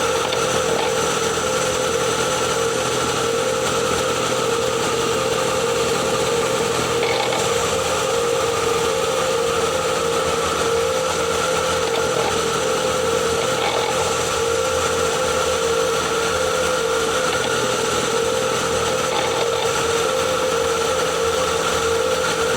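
A Ford Kuga PHEV's HF45 e-CVT transmission, heard from microphones on the gearbox, making a steady rotational whine over a fast, even churning. The owner traces the noise to the gearbox and suspects motor generator 1; it appeared after the flywheel was changed.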